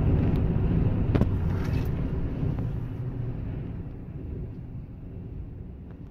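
Car driving noise, a low rumble of engine and tyres that fades away steadily, with a sharp knock about a second in.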